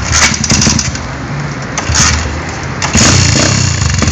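150cc pit bike's single-cylinder four-stroke engine running with its choke on, surging briefly near the start and about two seconds in, then running louder and steadier from about three seconds in. The owner says running on the choke leaves it a bit sluggish to rev.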